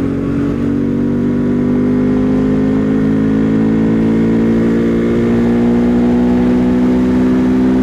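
Husqvarna Svartpilen 401's single-cylinder engine pulling under steady acceleration at road speed, its pitch rising slowly and evenly.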